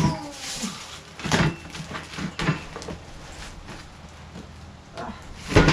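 Knocks and thumps from handling a boxed floor jack and its cardboard packaging, a few scattered bumps with the loudest near the end.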